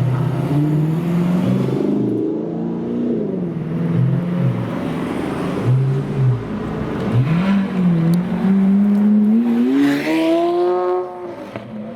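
Loud supercar engines revving: several engines overlap at first, then come short throttle blips, then one long rising rev that cuts off about eleven seconds in.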